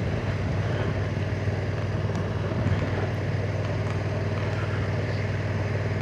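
Honda NT1100's parallel-twin engine running at a steady, unchanging pitch while the motorcycle cruises, with a steady rush of road and wind noise.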